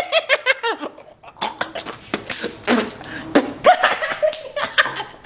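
Snickering and laughter mixed with short vocal bits and several quick smacks or clicks.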